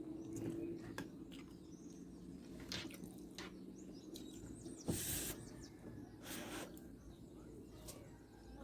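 Faint eating sounds: chewing with scattered small clicks, and two short hissy bursts a little past halfway.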